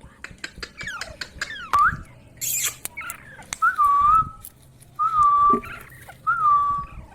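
Ringneck parrot whistling: quick clicks and rising chirps, then three drawn-out whistled notes that each rise and then hold steady.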